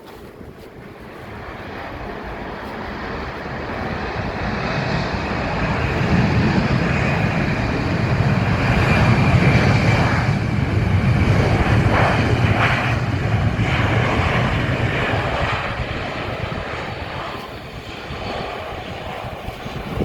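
TransNusa airliner passing close on arrival, its engine noise swelling for several seconds, holding loud through the middle and fading away, with a high whine over the rumble.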